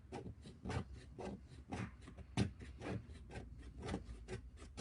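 The 90-degree spine of a knife scraping a stick of resinous fat wood, raising fine tinder shavings, in repeated short strokes about twice a second.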